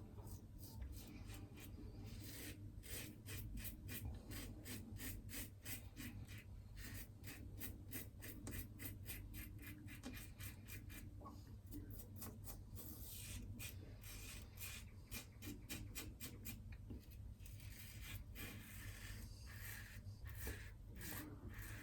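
Double-edge safety razor blade scraping through lathered facial stubble in many short, quick strokes, several a second, on a cross-grain pass. Faint.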